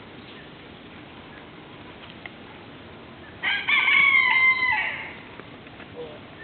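A farm animal calls once, for about a second and a half: a short note, then a long held one that falls away at the end.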